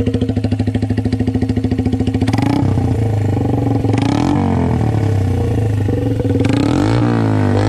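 Suzuki GN125's single-cylinder four-stroke engine through an open, unbaffled exhaust, idling with distinct, evenly spaced exhaust pulses, then revved about two seconds in, with rising and falling blips and another rev-up near the end.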